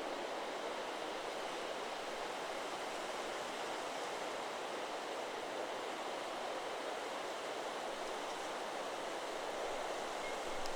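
Steady rustle of wind through forest trees, an even hiss with no chime strikes.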